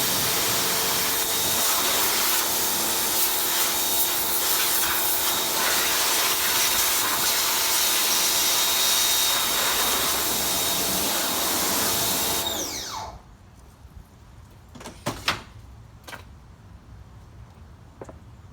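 A small electric motor-driven machine runs steadily with a whine and a hiss, then is switched off about twelve seconds in and winds down to a stop. A few light knocks follow.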